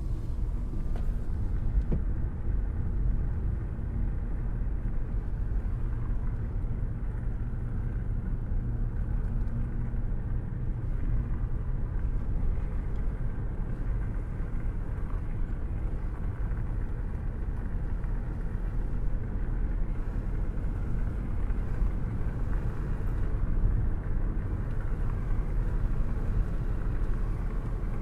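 Car cruising at a steady speed: a constant low rumble that does not rise or fall.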